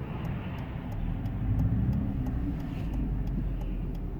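Alfa Romeo 159 2.2 JTS being driven on the road: engine and road rumble that swells about a second in, then eases, with a light, even ticking over it.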